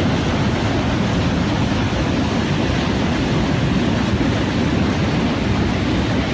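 Multiple launch rocket system firing rockets in rapid succession: a loud, steady rushing noise with no separate blasts standing out.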